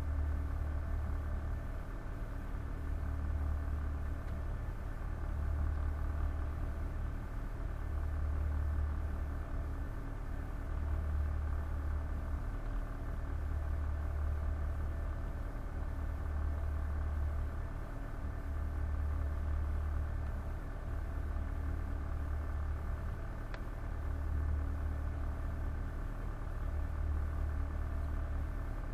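Boat engine running steadily, heard from on board: a low drone that swells and eases about every two and a half seconds, with a steady mechanical hum over it.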